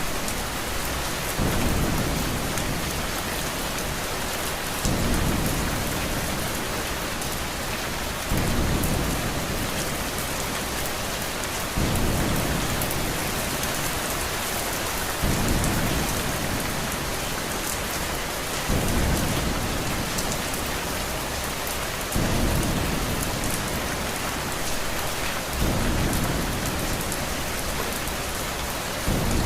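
Steady heavy rain hiss, with a low rumble like thunder that comes in suddenly about every three and a half seconds and dies away, repeating like a short audio loop.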